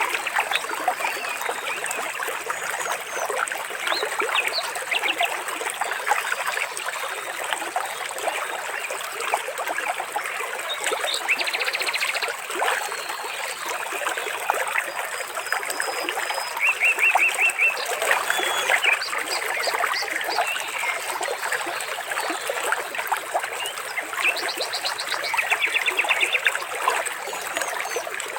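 Shallow water trickling and babbling in a steady stream. A few short, rapid trilling calls and thin whistles from small animals break in over it.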